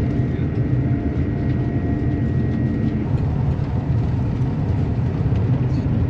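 Steady low rumble of a passenger train running at speed, heard from inside the carriage, with a faint thin whine during the first half and a few light ticks.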